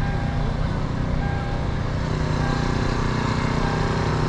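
Car engine running steadily at low speed, heard from inside the cabin as the car creeps along.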